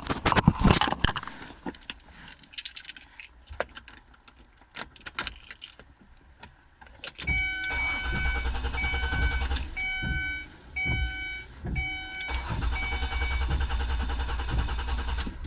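Keys jangling and clicking at the ignition. From about seven seconds in, the 2003 Ford Escape's starter cranks the engine in two long tries, with a repeating dashboard warning chime beeping over it. The engine does not catch, although it has a new battery.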